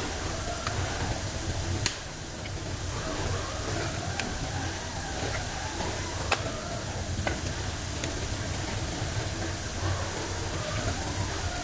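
Steady workshop background noise with a low hum, broken by a few sharp clicks, the loudest about six seconds in.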